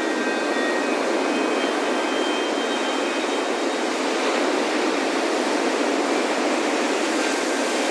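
Ocean surf washing steadily on a beach, a continuous rushing wash of waves, with faint metal wind chimes ringing lightly near the start.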